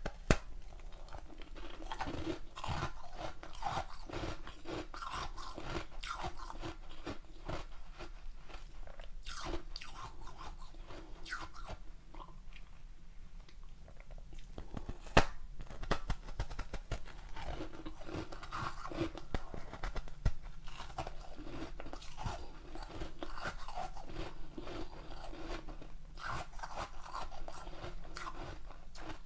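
Ice being bitten and chewed close to the microphone: dense, irregular crunching and crackling, with one sharp, loud crack about halfway through.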